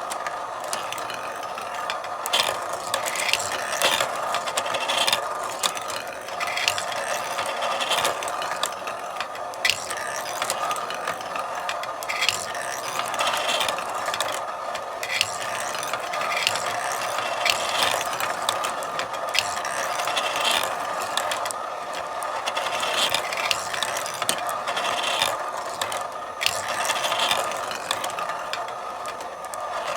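Marble run in operation: marbles rolling along the tracks with a continuous rumble, dotted with frequent irregular clicks and clacks as they strike track pieces and each other.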